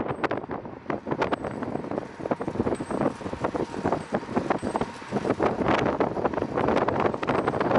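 Wind rushing over the microphone of a moving fixed-gear bicycle, with rapid, irregular rattling clicks and knocks from the bike.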